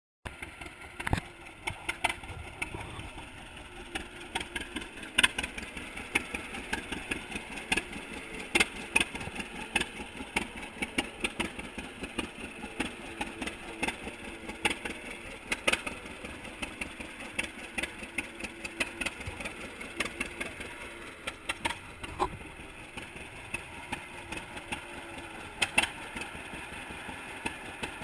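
1942 John Deere unstyled Model A two-cylinder engine running, with sharp, uneven popping beats from the exhaust.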